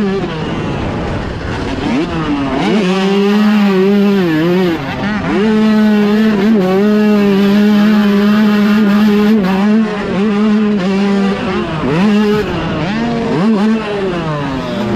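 Dirt bike engine running hard at high revs, holding a steady pitch. The revs drop and climb back several times as the throttle is eased and reopened.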